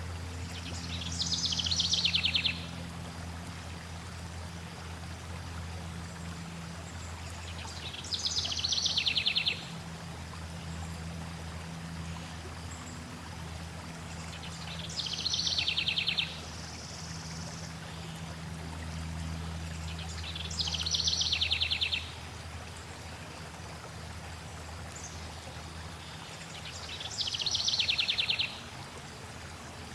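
A songbird repeating the same fast trilled phrase five times, about every six seconds, each phrase starting high and dropping lower and lasting about a second and a half. A steady rush of flowing water with a low hum runs underneath.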